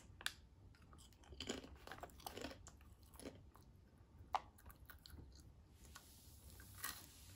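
Someone biting into a crunchy corn tortilla chip and chewing it with the mouth close to the microphone: faint, irregular crisp crunches that thin out after about four seconds.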